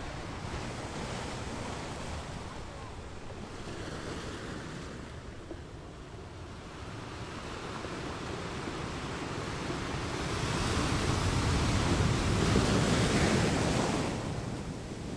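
Sea waves washing at the shore, one swell building through the middle and loudest a few seconds before the end, then falling away.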